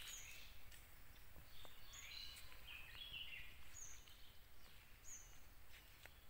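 Faint birdsong: several small birds chirping, with short high notes and brief calls every second or so over a low steady background rumble.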